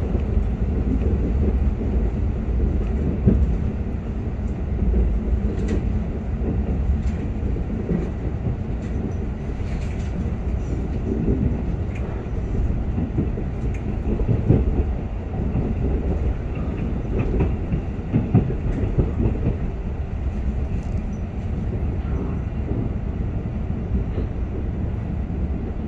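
Electric Line 1 commuter train running along the track, heard from inside the car: a steady low rumble of wheels on rails with occasional clicks and knocks over rail joints.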